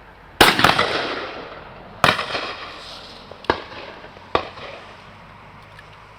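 Shotguns firing at a driven game shoot: a loud double near the start, then three more single shots spaced a second or so apart. Each bang trails off in a long echo.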